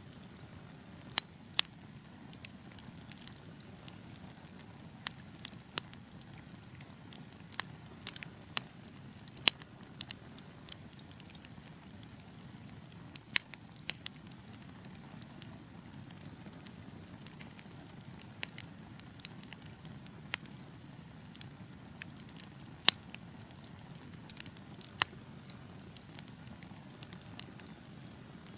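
Wood fire crackling: a low steady hiss of burning with sharp irregular pops and snaps from the logs, a few every couple of seconds.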